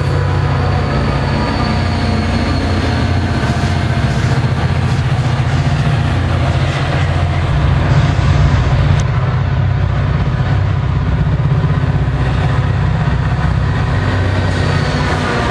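Diesel passenger trains passing a station platform. First an NJ Transit locomotive at the rear of its train runs by. After a cut about nine seconds in, Metro-North GP40PH-2 diesel locomotive 4906 approaches and passes close, its engine running and its wheels sounding on the rails.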